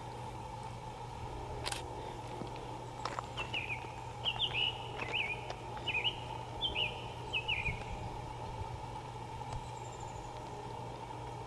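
A songbird singing a quick two-note phrase about seven times in a row over a few seconds, each note slurring downward, over a steady faint low drone.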